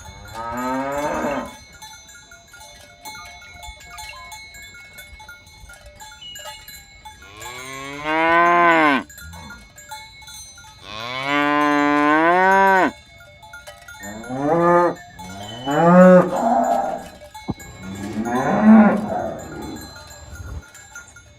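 Cattle mooing: six drawn-out moos, each a second or two long. The longest comes near the middle, and three follow in quick succession in the second half.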